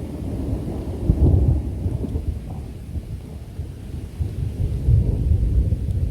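Rolling thunder from a thunderstorm: a low, continuous rumble that swells about a second in and again around five seconds.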